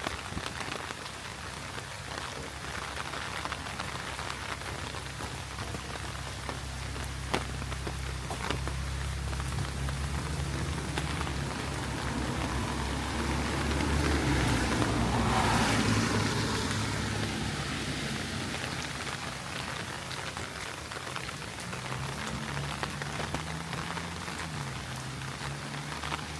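Heavy rain falling steadily on a city street, a constant hiss with scattered sharp drop clicks. A low engine drone builds, and a vehicle swells past on the wet road about halfway through, then fades.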